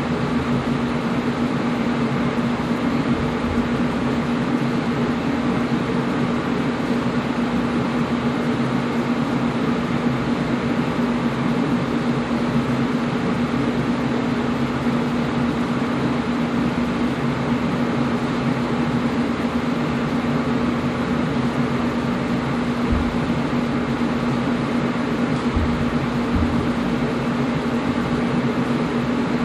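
Air conditioner running steadily: an even rushing noise of moving air with a constant hum under it.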